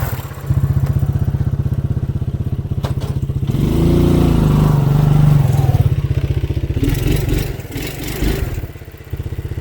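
Small engine running with an even, fast chugging beat. It revs up for a couple of seconds about four seconds in, then settles back to idle.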